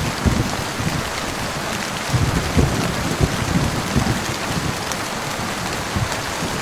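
Steady heavy rain hissing on a surface, with low thunder rumbling underneath that swells about two seconds in and fades after about four and a half seconds.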